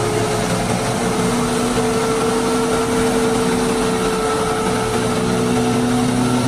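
Small electric motor of a DIY model tractor or chaff cutter running steadily, a constant whine with a rushing hiss and no change in speed.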